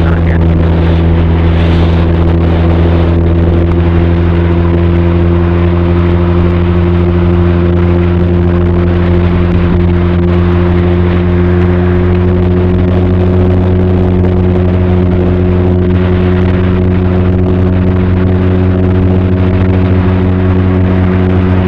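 Benelli TRK 502's parallel-twin engine and exhaust running at a steady cruise, heard from a camera in the saddlebag. The engine note holds even and creeps slightly higher in pitch through the middle.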